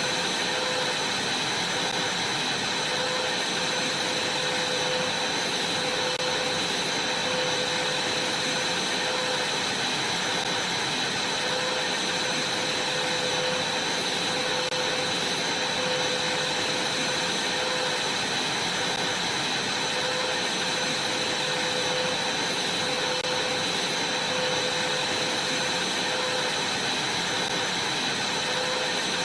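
Vacuum cleaner running steadily: an even hiss with a high whine over it, and a lower hum that comes and goes every couple of seconds.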